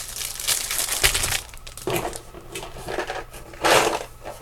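Packaging crinkling and rustling in irregular bursts as kit items are lifted out and unwrapped, with one loud crinkle near the end.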